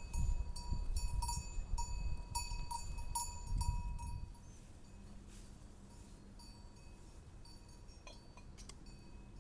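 Repeated metallic strikes that ring at the same pitch each time, about two a second over a low rumble, stopping about four seconds in; a faint low hum and a few light clicks follow.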